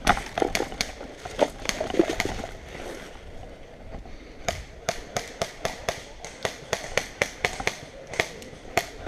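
Airsoft guns firing a rapid string of single shots, sharp cracks coming about three or four a second, heaviest over the second half.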